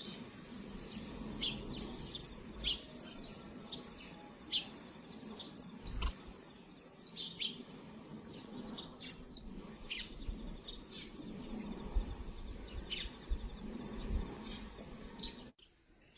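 Small finches, munias, chirping: a string of short, high, falling call notes, sometimes several a second, with a single sharp click about six seconds in.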